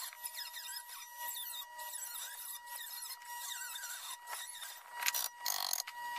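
Electric arc welding on steel: the arc crackles and sizzles continuously over a steady high-pitched tone.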